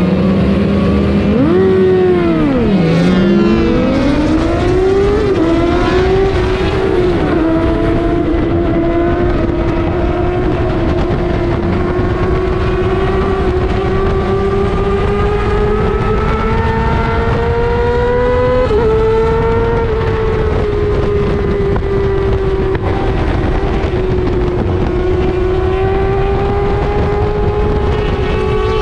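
Racing sportbike engine under hard acceleration, its pitch swinging up and down in the first few seconds, then climbing steadily through long pulls with a sudden drop at each upshift, one about two-thirds of the way through.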